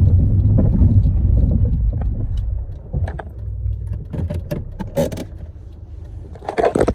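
Car running, its low road rumble heard from inside the cabin, fading after about two and a half seconds. A few sharp clicks and small rattles follow.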